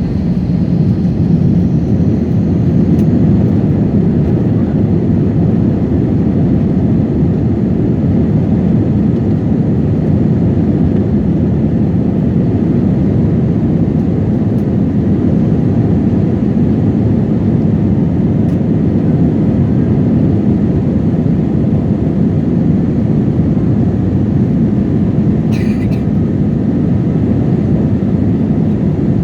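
Steady, loud rumble of a jet airliner heard from inside the cabin during takeoff, with one brief click near the end.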